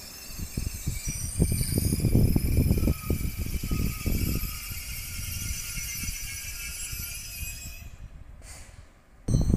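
SNCF TER regional train moving away along the line, its running noise fading, with uneven gusts of low rumble and thin high tones that die away by about eight seconds. Near the end a louder train noise starts suddenly.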